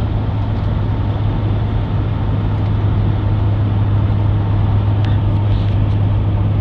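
Steady rumble of a moving vehicle with a strong low hum under it, and a few faint clicks about five seconds in.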